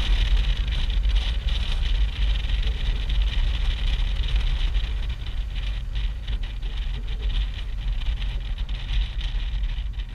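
Motorcycle riding at speed: engine and road noise under heavy wind buffeting on the microphone, a loud, uneven low rumble with a steady hiss above it.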